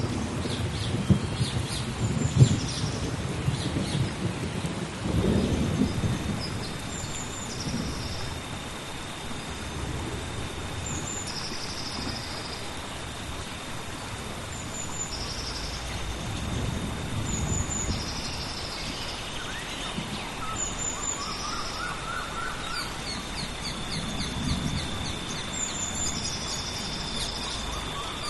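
Tropical rainforest thunderstorm: steady rain with low rolling thunder, heaviest at the start and swelling twice more later. A bird repeats a short high call every couple of seconds, over a thin steady high whine.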